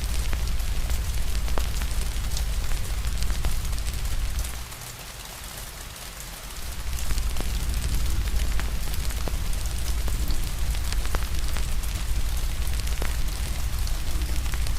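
Rain falling with a wood fire crackling: a steady hiss and deep rumble, with scattered sharp pops and snaps. The low rumble drops away for about two seconds near the middle, then returns.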